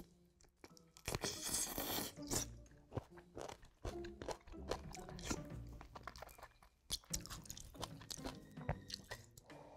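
A person chewing and biting into pieces of braised spicy chicken close to the microphone: irregular crunchy clicks and wet mouth sounds, densest in a noisy stretch about a second in.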